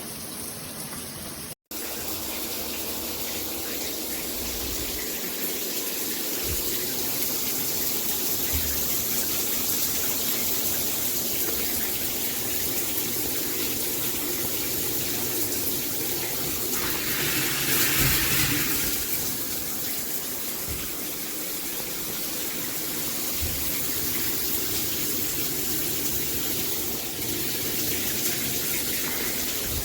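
Water spraying steadily from a rainfall-and-handheld shower head combo, with a brief louder swell a little past the middle.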